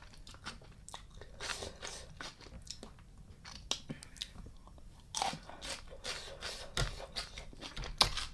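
Close-miked chewing and crunching while eating spicy raw blue crab salad: an irregular run of wet crackles and snaps, with a sharper snap near the end.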